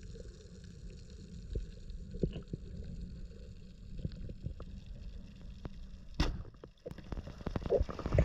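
Underwater ambience picked up by a diver's camera: a steady low rumble with scattered faint clicks, and one sharper knock about six seconds in.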